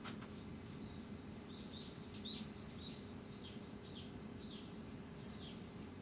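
A small bird calling a run of about nine short, high, falling notes, roughly two a second, over a steady low background hum.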